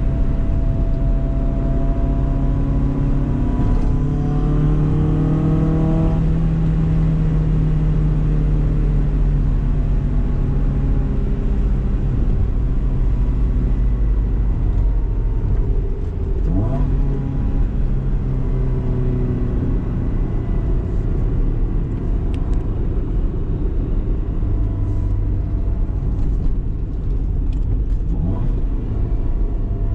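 BMW E30 318is's four-cylinder engine pulling under acceleration, its pitch rising for a few seconds and then holding steady while cruising. About halfway through there is a brief rise and drop in engine pitch. Steady road and tyre noise lies underneath.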